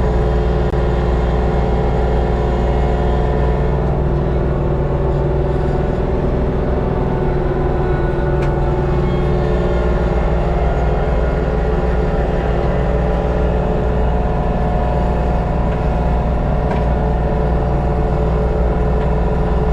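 LS MT232 subcompact tractor's diesel engine running steadily under load, driving a brush hog (rotary cutter) through a field, heard from inside the cab.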